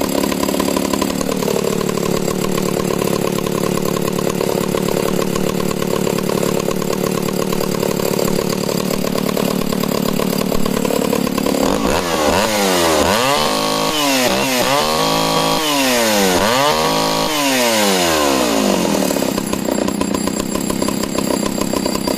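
Echo CS-602VL two-stroke chainsaw engine running. It settles about a second in to an idle that is rock steady, is blipped up and down several times on the throttle in the middle, then drops back to idle.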